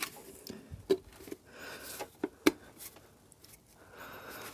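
A few light knocks and soft rubbing as the rubber air filter outlet boot is worked onto the airbox by hand.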